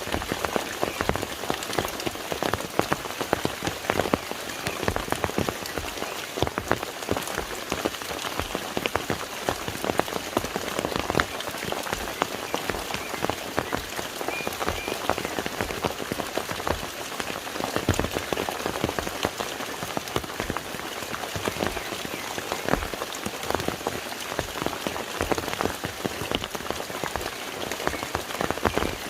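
Steady rain falling on a lake, a dense patter of many small drops hitting the water surface.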